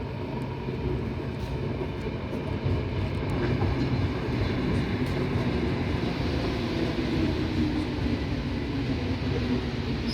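Passenger train running on the rails, a steady rumble.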